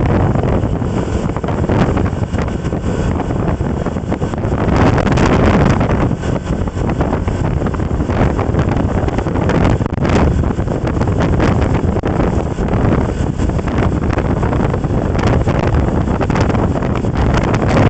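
Loud, steady wind buffeting the microphone of a moving camera, with rumbling and rapid flutter throughout.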